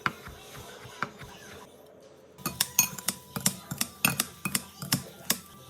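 A utensil clinking against a bowl or dish in food preparation: a few separate taps, then about two and a half seconds in a quick, uneven run of sharp clinks several times a second.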